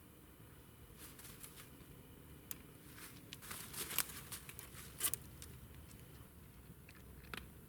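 Light rustling and crackling: a run of small clicks and crackles that thickens toward the middle, with two louder snaps about four and five seconds in and a few scattered clicks near the end.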